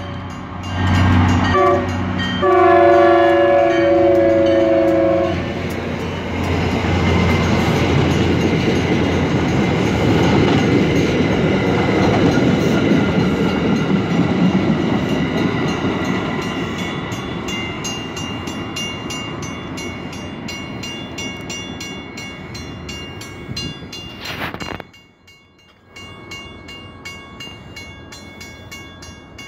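Passenger train sounding its horn, a multi-tone chord held for a few seconds and ending about five seconds in. The train's cars then rumble and clatter past over a grade crossing, the noise slowly fading as the train moves away.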